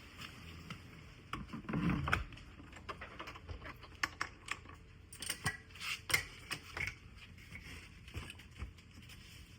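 Irregular clicks and knocks: a louder rustling knock about two seconds in, then a scattered run of sharp taps.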